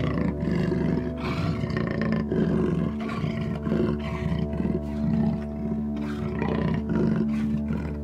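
An animal calling in a series of short, harsh vocalizations, about one or two a second, over steady background music.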